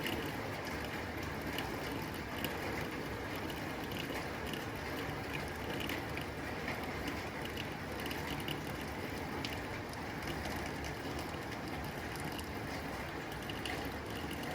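Rain falling on a tin roof: a steady hiss of rain with dense, irregular tapping of drops on the metal.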